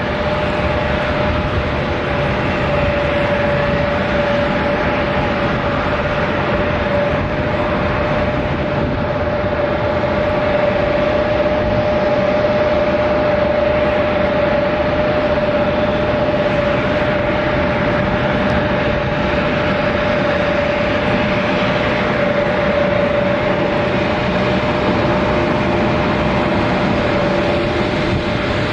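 Boeing 787-10 airliner's jet engines running steadily: a constant noise with a steady tone through it. A second, lower tone joins it in the last few seconds.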